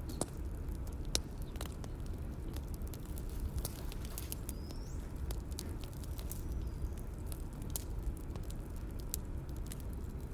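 Bonfire ambience: wood fire crackling with irregular sharp pops and snaps over a low steady rumble.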